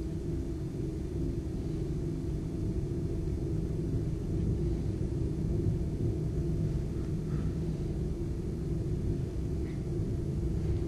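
A steady, dense low rumbling drone with a few held tones over it, part of an experimental noise performance.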